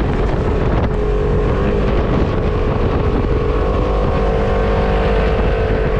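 Off-road vehicle engine running hard at fairly steady revs, its pitch shifting slightly up and down, with wind rushing over the microphone.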